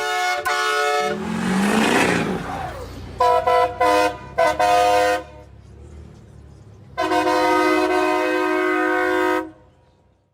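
Vehicle horns honking in a series of blasts: two short honks at the start, a run of quick toots a few seconds in, and one long blast near the end. A rising rush of noise sits between the first honks and the toots.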